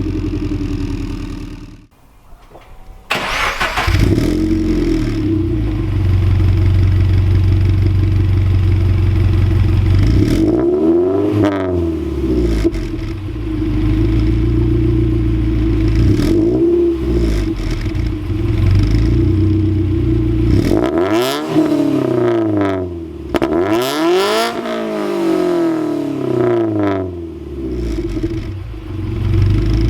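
Subaru BRZ's 2.0-litre flat-four boxer engine with an aftermarket exhaust header. After a short gap it starts about three seconds in and idles, then is revved in several quick blips that rise and fall in pitch.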